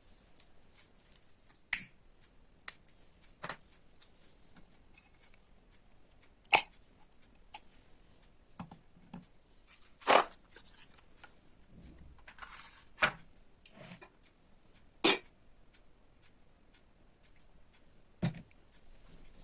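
Scattered small clicks, taps and knocks of objects being handled, about a dozen at irregular intervals, a couple of them slightly longer scrapes.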